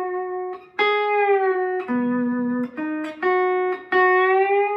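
Lap steel guitar in open G tuning (G B D G B D) playing a slow melody phrase with the bar: a handful of long sustained notes that slide slightly into pitch, one of them sounded with a lower chord note under it.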